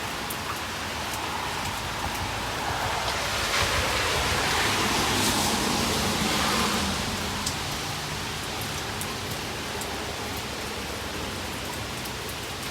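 Steady rain falling, with faint scattered drop ticks; the rush swells louder for a few seconds around the middle, then settles back.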